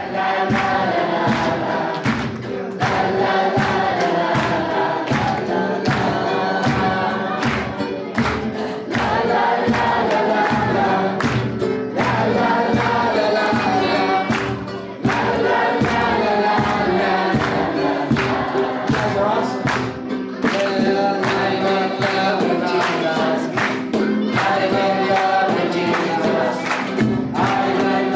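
Group of voices singing a gospel worship song together over instrumental backing with a steady beat.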